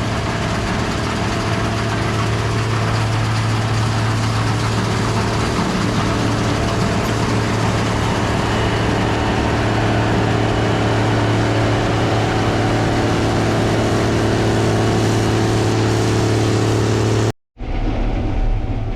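Gleaner R72 combine running steadily: a constant low engine hum under a wash of threshing machinery noise. It cuts off abruptly near the end.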